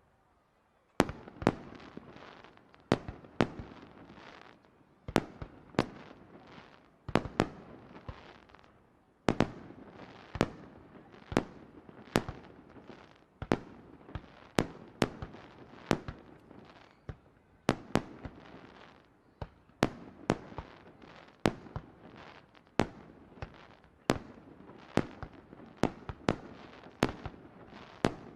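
Aerial fireworks shells bursting in quick succession, a sharp bang every half second to second, each followed by an echoing rumble.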